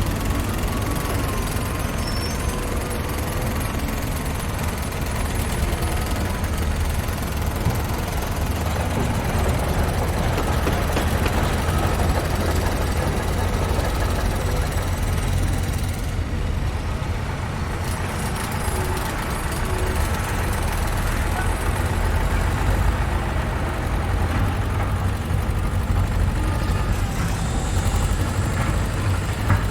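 Construction-site machinery and trucks: heavy engines running with a steady low rumble under a constant mechanical din.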